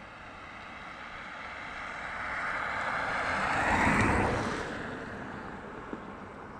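A motor vehicle passing by, growing louder to a peak about four seconds in and then fading away.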